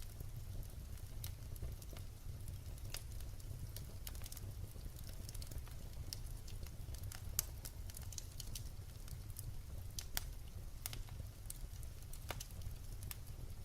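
Wood fire burning, with irregular sharp pops and crackles of the logs over a low steady rumble.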